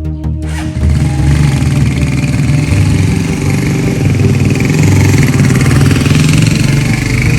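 Motorcycle engine running loudly and steadily. It cuts in just under a second in, over the end of background music.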